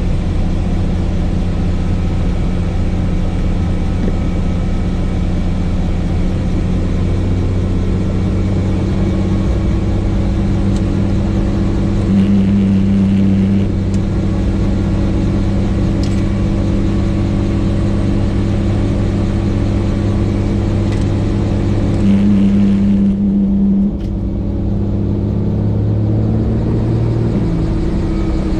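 Helicopter in flight: a steady low drone of rotor and engine, with the hum briefly swelling twice.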